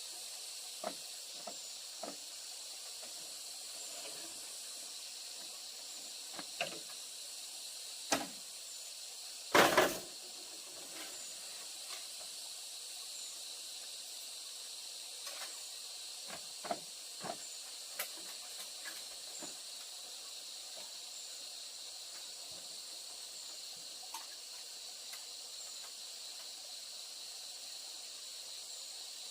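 Steady high-pitched insect hiss, like crickets or cicadas, with scattered short knocks and a loud clattering knock about ten seconds in.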